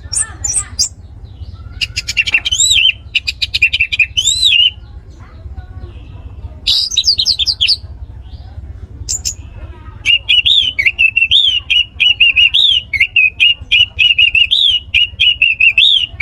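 Orange-headed thrush (anis merah) singing: short bursts of quick, warbling notes, then from about ten seconds in a long, unbroken run of rapid, repeated notes. A steady low hum runs beneath.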